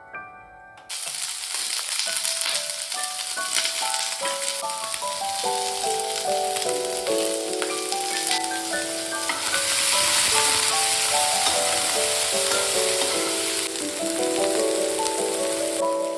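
Food sizzling and frying in a hot pan. The sizzle starts suddenly about a second in and grows louder about halfway through. Soft mallet-and-piano music plays underneath.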